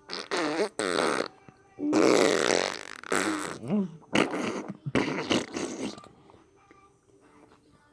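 Fart-like noises made by a person for fun, a run of about six buzzing bursts with a wavering pitch, the longest and loudest about two seconds in, stopping about six seconds in.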